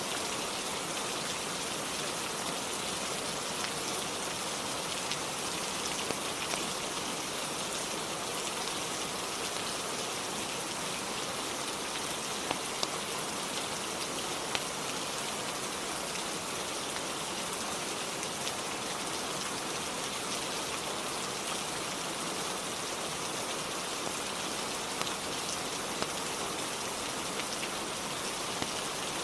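Steady rain falling on a roof, an even unbroken hiss with a few scattered sharp ticks.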